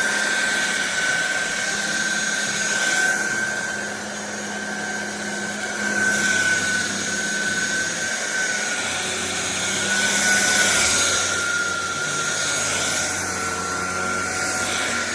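Cordless stick vacuum running steadily, its motor giving a constant high whine over rushing air that grows louder and softer every few seconds.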